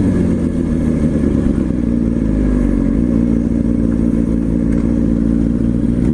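Motorcycle engine running steadily, its pitch holding nearly level, over a low rumble.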